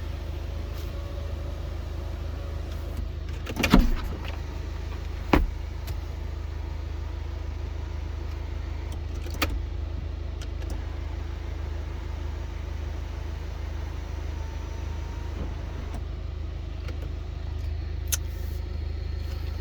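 BMW 520d's four-cylinder diesel engine idling steadily, with a few sharp clicks and knocks over it, the loudest about four seconds in.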